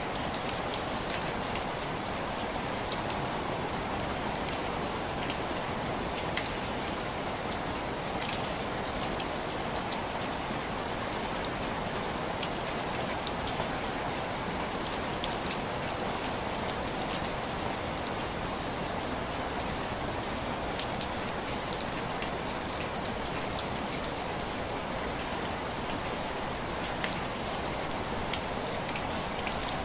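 Steady rain drumming on window glass, with many separate drops ticking sharply over the continuous patter.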